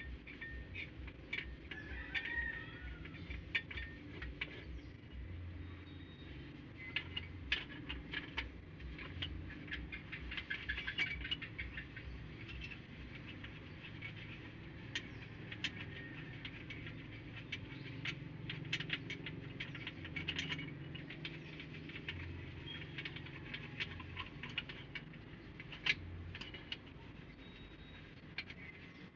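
Work noise from an engine overhaul: irregular light clicks and taps of hand tools on engine parts, over a low hum.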